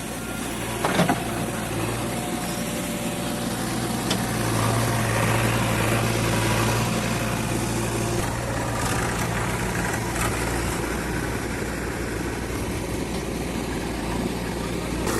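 JCB 3DX backhoe loader's diesel engine running steadily, rising in level for a few seconds in the middle as it works under load. A sharp metallic knock sounds about a second in.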